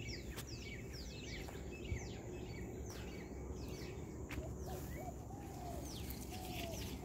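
Birds calling: a quick run of short, high chirps, each falling in pitch, about two or three a second. From about four seconds in, a lower, wavering call repeats several times.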